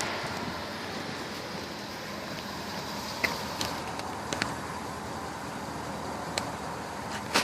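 Steady road traffic noise, with a few short sharp clicks.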